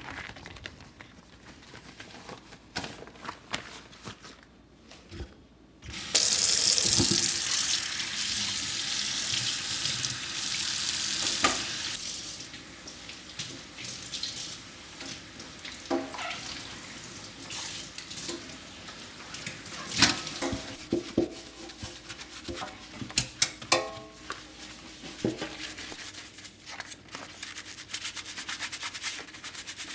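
Kitchen sink tap turned on about six seconds in, water running hard into the sink for several seconds, then a softer flow broken by scattered knocks and clicks.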